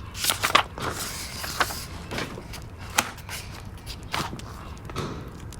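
Wood fire crackling in a fireplace, with irregular sharp pops and snaps over a low steady background and a brief hiss.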